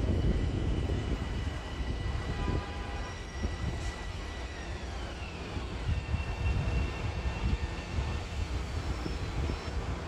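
Long Island Rail Road electric multiple-unit train running through the station: a low rumble with a thin high electric whine that glides down in pitch about halfway through and settles on a lower steady tone.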